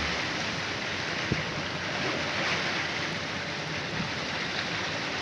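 Steady rush of wind and water, with one short knock about a second in.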